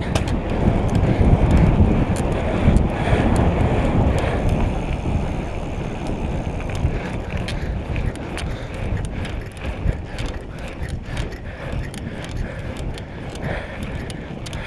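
Wind buffeting the microphone while riding a bicycle, with tyre rumble and scattered clicks and rattles from the bike. It is louder in the first few seconds, then eases off.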